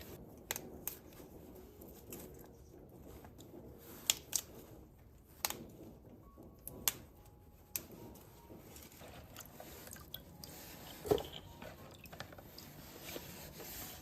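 Quiet eating sounds: chewing and crunching on stalky red caitai (purple-stem mustard greens), with scattered sharp clicks throughout and a louder knock about 11 seconds in.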